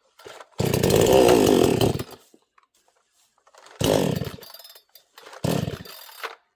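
Neotec 68cc two-stroke chainsaw running in three short bursts, each starting sharply and dying away after about a second or less: the saw stalls again and again, which the owner takes for running out of gas, with a leaking primer bulb letting air in.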